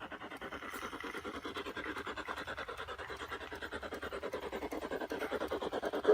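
Garden-scale model train running, a rapid, even clatter that grows steadily louder as it approaches.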